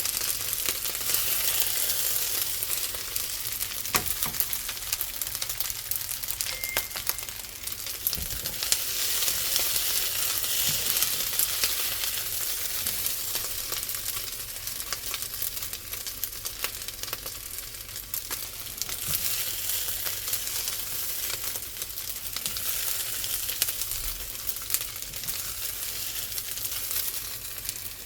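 Vegetable fried rice with sausage sizzling in a frying pan, with scattered clicks and scrapes of it being stirred.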